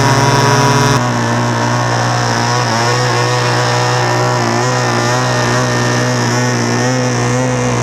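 Two-stroke model engine of a Shark 45 control-line stunt airplane running steadily at speed, a buzzing note whose pitch rises and falls slightly.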